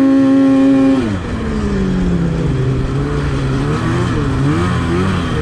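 Snowmobile engine held at high revs, then dropping about a second in and rising and falling with repeated throttle blips as the sled is played around in deep powder.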